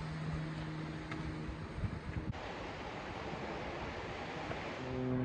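Ocean surf breaking on a rocky shore, a steady rushing noise mixed with wind on the microphone. A steady low hum runs under it for the first second and a half.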